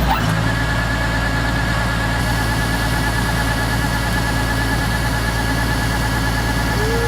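Rice combine harvester running steadily: an even engine hum with a thin, steady high whine above it.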